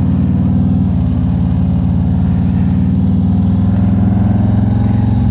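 Harley-Davidson Road King Special's V-twin engine running steadily at low revs, its pitch lifting slightly near the end.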